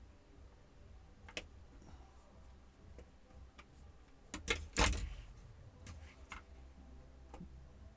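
Small hand tools being handled during laptop disassembly: scattered sharp clicks of a small screwdriver and bits on hard plastic, with a short clatter a little past the middle as the loudest sound.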